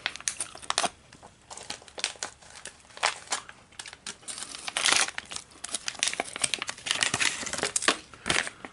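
Plastic MRE tortilla pouch being handled and opened: irregular crinkling and crackling of the packaging, with louder bursts about halfway through and near the end.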